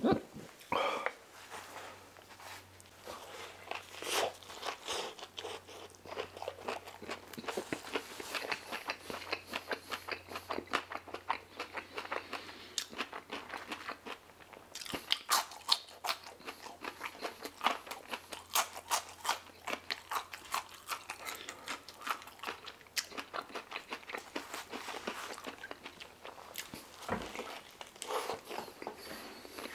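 Close-miked eating: steady chewing and lip-smacking with many small wet clicks as bites of a shawarma wrap and fries are chewed. A single low thump comes near the end.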